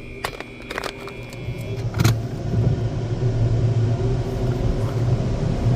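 A steady high whine and a few sharp clicks, then from about two seconds in a steady low machine hum that grows louder.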